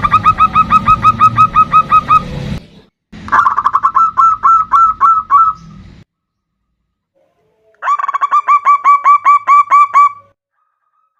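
Zebra dove calling in three bursts, each a fast run of short clipped coos, about six a second. A low hum sits under the first two bursts.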